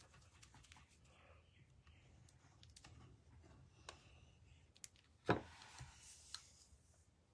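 Quiet clicks and taps of card-making materials being handled and set down on a craft desk, with one louder knock a little over five seconds in, followed by a brief rustle.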